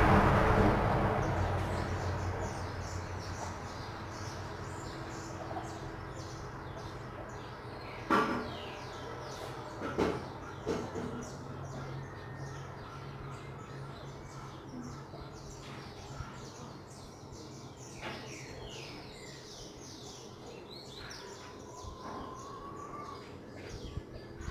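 Small birds chirping over and over in the background, with a few sharp knocks about 8 and 10 seconds in. A louder rushing noise dies away over the first few seconds, and a faint low hum runs underneath.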